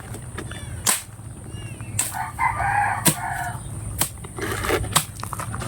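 A rooster crows once, about two seconds in. Short scraping strokes come about once a second alongside it, and there are a few faint bird chirps early on.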